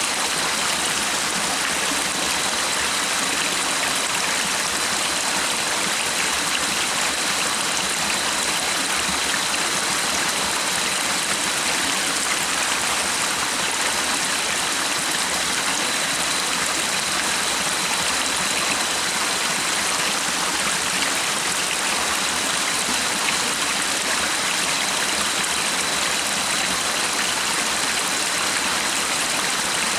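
Stream water running steadily, a constant even rush and babble with no breaks.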